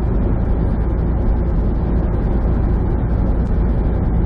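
Semi truck's diesel engine and tyre noise heard from inside the cab while cruising on the highway: a steady low drone.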